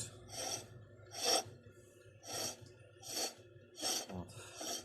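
Repeated scrubbing strokes on the steel hydraulic cylinder part, about one a second, as it is cleaned with solvent before welding.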